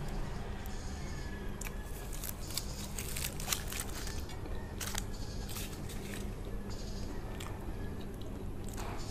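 Close-miked chewing of a mouthful of chicken burrito, with wet mouth clicks and smacks at irregular intervals.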